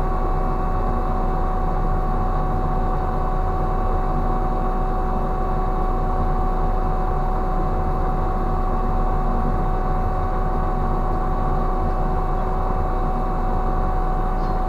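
Heavy deck-crane machinery on a cargo ship running steadily: a deep, even hum with a constant high whine over it.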